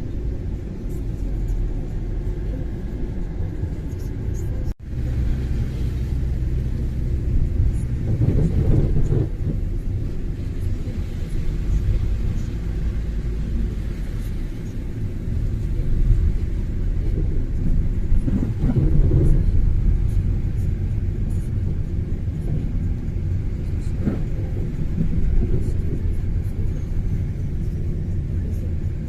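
A car driving on a snowy road: a steady low rumble of engine and tyre noise, with a momentary dropout about five seconds in.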